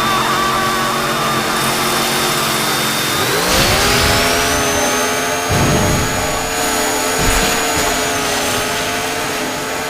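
Chainsaw motor sound effect running loud and steady, then revving up in pitch about three and a half seconds in and holding at the higher pitch. A few dull thumps come through in the second half.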